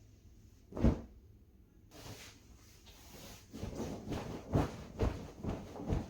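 Bedding being handled while a bed is made: a single thump about a second in, then rustling, and from about halfway a run of soft thumps and swishes, roughly two a second.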